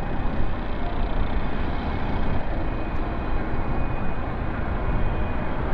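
Steady rumble of jet airliner engines with faint held whining tones, mixed with gusty wind buffeting the microphone.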